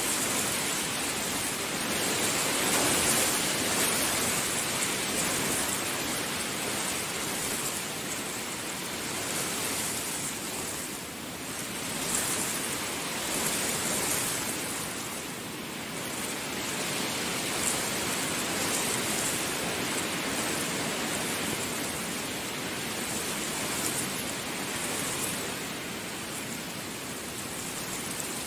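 Heavy rain falling as a dense, even hiss, swelling up at the start and then rising and falling in slow waves.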